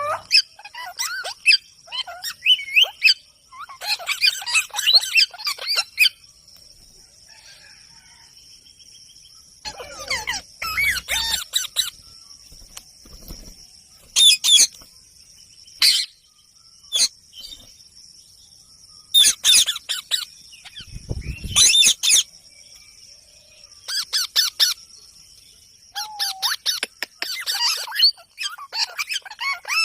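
Parrot calling in repeated bursts of squawks and chirps, with pauses of a second or more between them. A steady high-pitched tone runs underneath.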